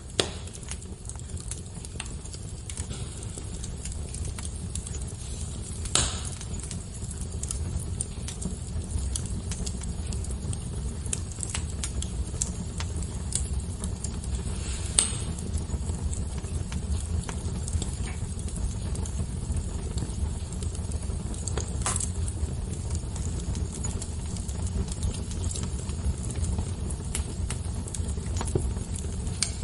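Fire crackling: many small sharp pops scattered over a steady low rumble, with a few louder pops at the very start and about six, fifteen and twenty-two seconds in.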